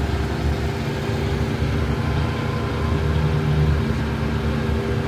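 A car engine idling steadily, a constant low hum.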